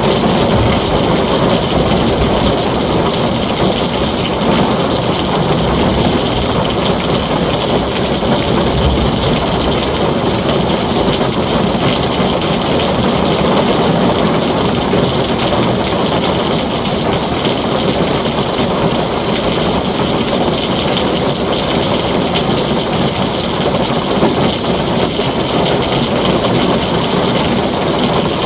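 Heavy rain falling steadily on a tin roof: a dense, even hiss without a break.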